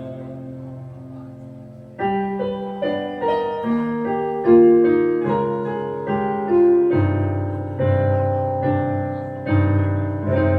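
Piano played without singing, an instrumental passage of a song: a held chord fades away, then a run of struck single notes starts about two seconds in, with deep bass notes joining past the halfway mark.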